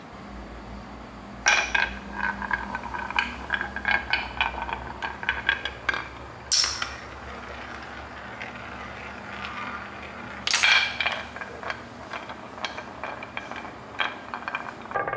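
Small hard objects clicking, clinking and rattling in quick runs. Sharp knocks come about a second and a half in, past the middle and two-thirds through, each followed by a stretch of rapid ticking.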